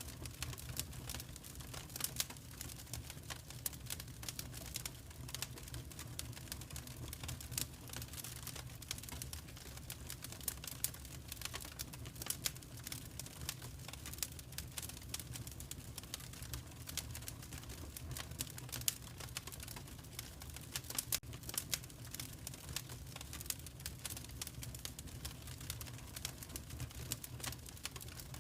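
Fireplace fire crackling: many irregular sharp pops and snaps over a steady low rumble.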